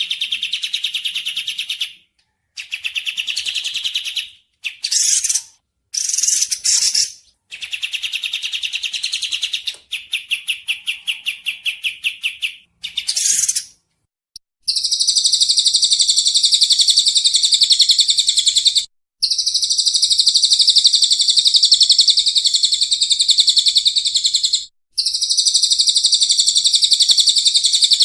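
Looped songbird song for bird training: rapid high trills in short phrases with sudden breaks, then from about halfway long, dense, high-pitched trills of four or five seconds each, separated by brief abrupt gaps.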